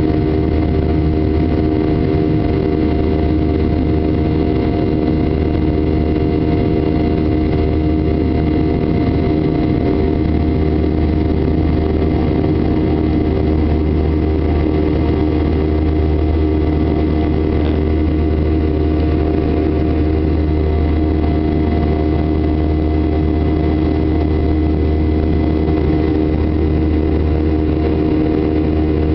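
Boeing 737-800's CFM56-7B jet engines running steadily: a constant drone with several held tones that does not rise or fall.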